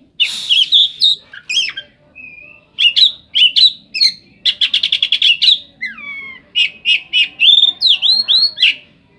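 Oriental magpie-robin (kacer) singing a loud, varied song of sharp chirps, whistles and a fast rattling trill, with falling glides about six seconds in and rising whistles near the end. The song is filled with mimicry, including long-tailed shrike (cendet) notes.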